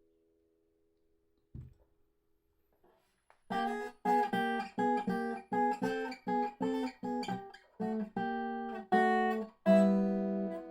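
A 1985 Dobro spider-cone resonator guitar with a maple body plays a run of short picked notes, about two a second, starting a few seconds in after a quiet stretch with one soft knock. Near the end it rings a longer chord.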